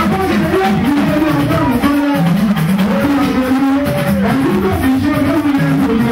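Band music with guitar and drums playing steadily, a melody line moving over a full low end.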